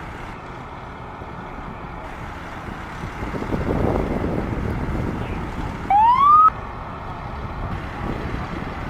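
Road traffic passing, with one vehicle swelling past about four seconds in. About six seconds in comes a single short, rising siren whoop from an emergency vehicle, cut off abruptly after about half a second.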